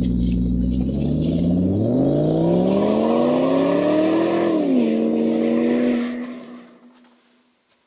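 A motor running with a steady pitch, then speeding up in a smooth rising whine. Its pitch drops suddenly and it fades away to silence.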